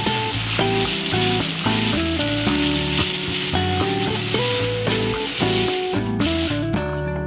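Butter and spaghetti sizzling in a frying pan over a gas flame as the pasta is tossed and stirred with chopsticks. The sizzle cuts off about six seconds in.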